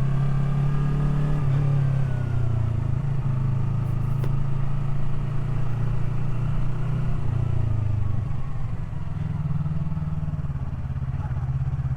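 Yamaha R3's parallel-twin engine running at low revs as the bike rides along. Its pitch eases down in the first few seconds, drops lower about seven seconds in and picks up again a couple of seconds later.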